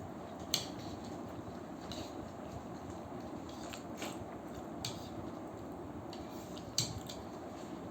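Chopsticks clicking against a plate and against each other a few times while momos are picked up. The sharpest clicks come about half a second in and again near the end, over a steady background hiss.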